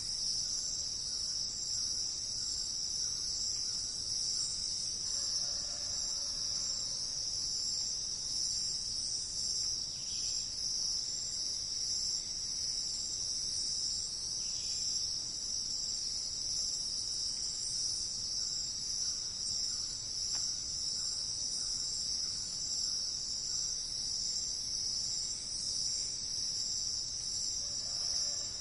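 Steady, high-pitched chorus of insects, an unbroken shrill drone, with a few faint short bird calls now and then behind it.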